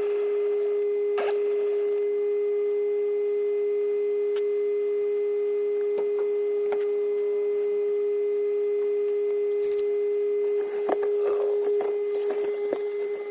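A steady, unwavering electronic tone at one pitch, with a few light clicks and, near the end, some small knocks.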